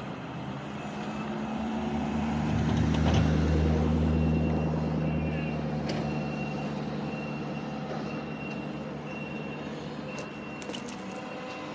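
A heavy vehicle's engine grows louder, peaks about three seconds in, then fades. A reversing alarm starts beeping steadily about four seconds in and keeps going.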